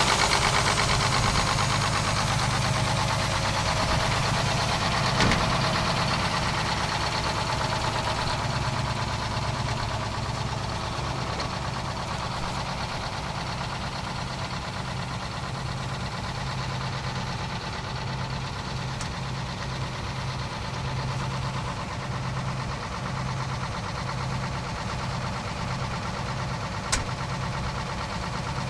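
Engine idling steadily with a low, even rumble; a high hiss fades away over the first few seconds, and a sharp click sounds near the end.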